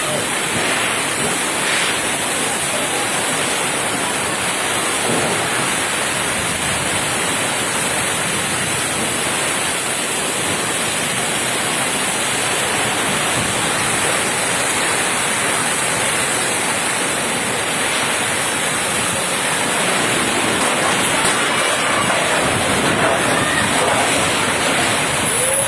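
Heavy downpour: rain pouring with a loud, steady hiss.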